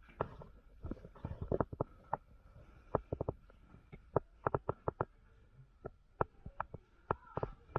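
Irregular sharp snaps and clicks of airsoft gunfire and BB strikes, some in quick runs of two or three, over a low rumble of movement on the microphone.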